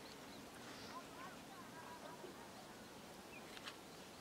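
Faint open-air background hiss with distant small birds chirping, a few short rising and falling calls about a second in.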